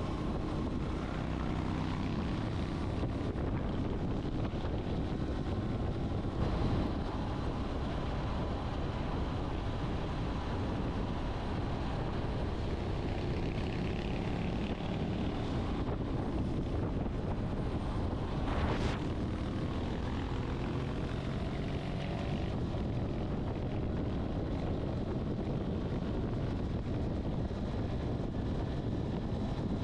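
Motorcycle engine running under way, its pitch drifting up and down with speed, under steady rushing wind noise.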